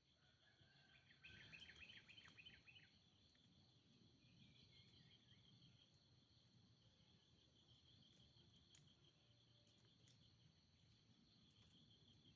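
Faint outdoor ambience: a steady high-pitched insect trill throughout, with a bird calling a quick run of chirping notes between about one and three seconds in, and a shorter falling run of notes a couple of seconds later.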